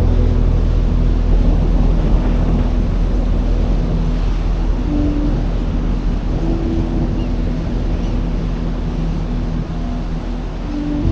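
Sea surf washing onto a sandy beach, with wind buffeting the microphone and a low steady hum underneath.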